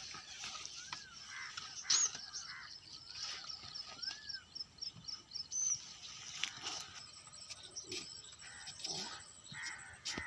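Crows cawing with other birds chirping around them, including a quick run of high repeated chirps a few seconds in.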